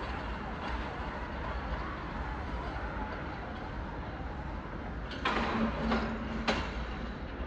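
Train rumbling through the station. About five seconds in come three sharp clicks and a short steady tone lasting just over a second.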